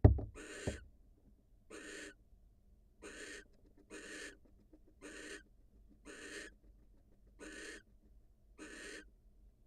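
Barn owl giving a series of short rasping hiss calls, about one a second, eight in all. At the very start there is a loud low thump, followed by a smaller knock less than a second later.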